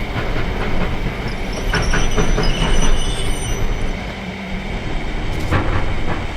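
Passenger train cars rolling past, with a steady rumble and wheels knocking over rail joints in clusters about two seconds in and again near the end. A thin, high wheel squeal runs through the middle.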